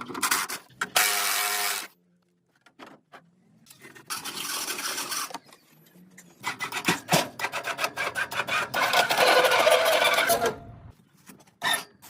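Rasping, scraping hand-tool work in three bursts separated by short pauses, the last burst the longest and loudest at about four seconds.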